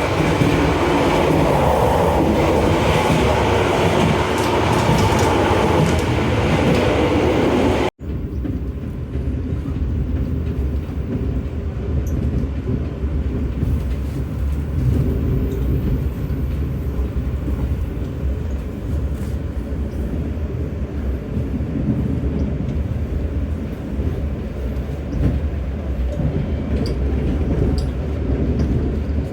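Running noise of the KA Anggrek express passenger train in motion: a loud, full rushing rumble for the first eight seconds. Then an abrupt cut to a quieter, deeper and more muffled rumble.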